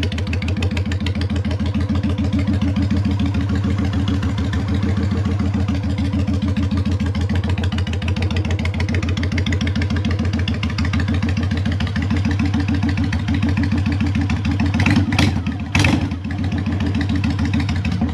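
The V-twin of a 2003 Honda Shadow 750 ACE, fitted with 2-inch Cobra drag pipes, idling steadily off choke as it warms up from a cold start, with an even exhaust beat. Two brief noisy bursts cut in about three seconds before the end.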